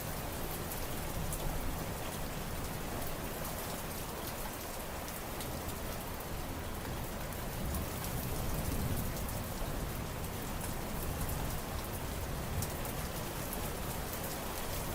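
Steady rain falling, a dense even patter of drops with fine individual drip ticks and a slight low rumble that swells about eight seconds in.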